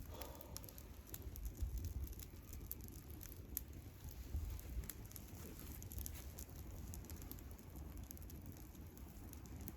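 Wood campfire crackling: scattered small pops and ticks over a low rumble.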